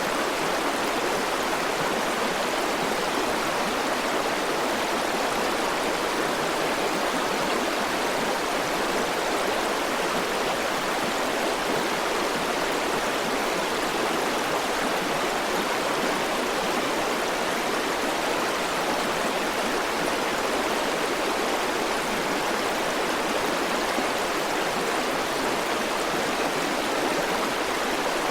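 River water flowing, a steady even rush with no splashes or changes.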